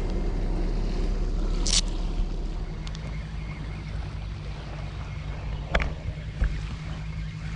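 Steady low rumble of wind and surf, with a low steady hum joining about two and a half seconds in and two sharp clicks, one about two seconds in and one near six seconds.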